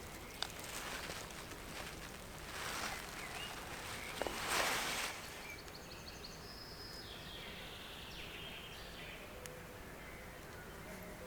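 Two short bursts of rustling in the first half, the second the louder, then faint, short bird calls over a quiet forest background.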